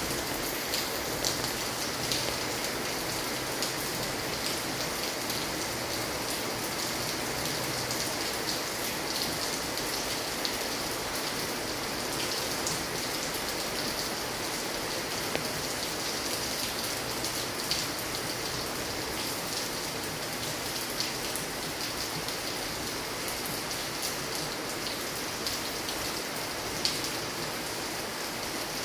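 Steady rain falling: a constant hiss with scattered sharper ticks of drops hitting a surface.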